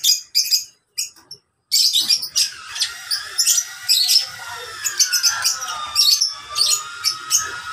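A flock of lovebirds chirping and squawking in sharp, rapid calls, broken by a short silence about a second in. From about two and a half seconds in, a steady high tone runs beneath the chirps, dipping slightly in pitch.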